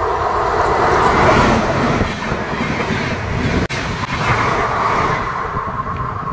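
Passenger train passing at speed right beside the track-side microphone: a loud rumble and rattle of wheels on the rails. It is loudest in the first couple of seconds and eases a little after that. The sound cuts out for an instant a little past halfway.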